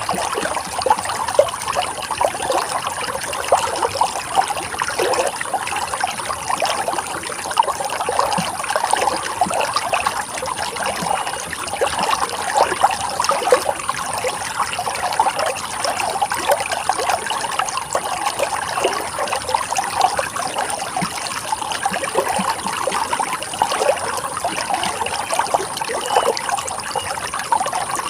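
Running water trickling and flowing steadily, a continuous splashing rush with many small flickers of sound.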